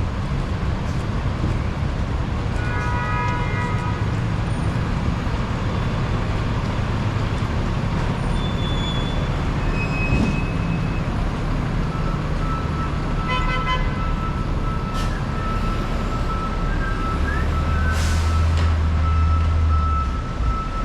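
Busy city street traffic on a rainy day, a steady wash of engines and tyres on the wet road. A car horn honks briefly twice, about three seconds in and again around thirteen seconds. Near the end a heavy vehicle's engine rumbles louder for a few seconds.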